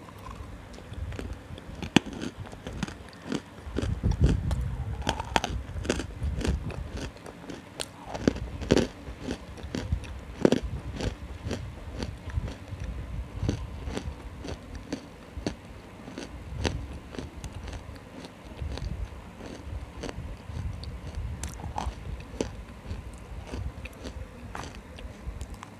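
Close-miked biting and chewing of a dry, crunchy food: many sharp, irregular crunches with mouth noises between them.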